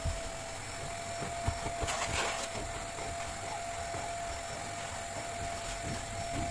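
Vacuum cleaner running steadily with a constant whine and hiss, with scattered light knocks and bumps and a brief louder whoosh about two seconds in.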